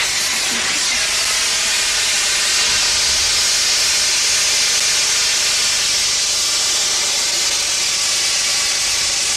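Liquid carbon dioxide jetting from a pressurised cylinder through an open valve and pipe in a loud, steady hiss. It is flashing back to gas so fast that the pipe is chilled until it frosts.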